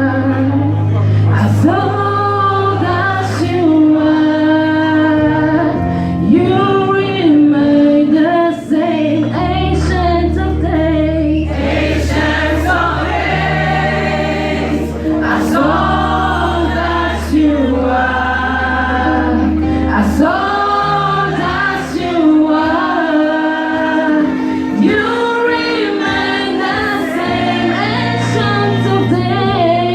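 A choir singing a gospel song in Twi, over long-held low accompaniment notes.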